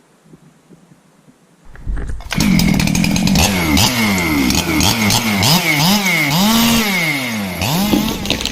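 Chainsaw starting up about two seconds in and then revving up and down repeatedly.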